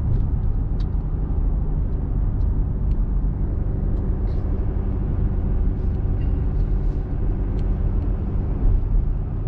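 Steady engine hum and road noise inside a small truck's cab while driving, with a few faint ticks.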